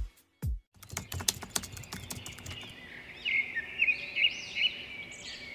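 Birds chirping outdoors: repeated quick, arching chirps begin about halfway through, after a short run of sharp clicks, over faint outdoor background noise. A last beat of music sounds at the very start.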